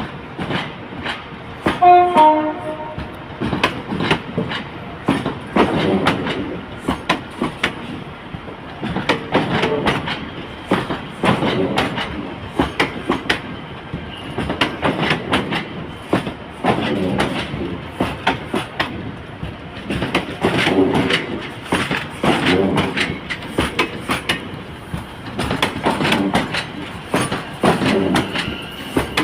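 Train moving through the station, its wheels clicking over rail joints and points again and again, with a brief horn sounding about two seconds in.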